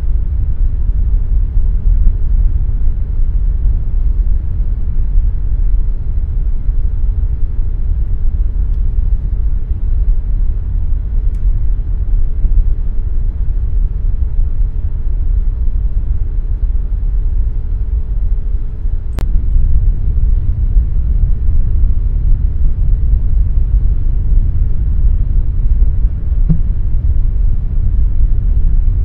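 Air conditioner running steadily: a loud, low rumble of noise with a faint hum over it. The hum stops with a single sharp click about two-thirds of the way through, and the rumble carries on.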